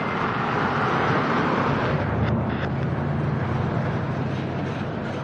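Freight train of loaded flatcars rolling slowly past, a steady rumble with a low drone coming in about two seconds in and a few faint knocks.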